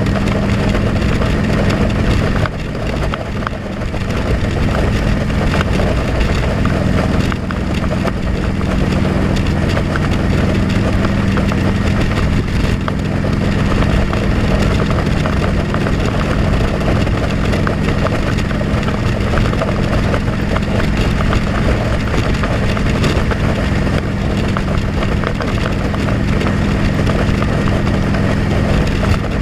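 Motorcycle engine running steadily, heard from a helmet-mounted camera with a dense rushing noise over it. The sound drops briefly about two and a half seconds in, then picks up again.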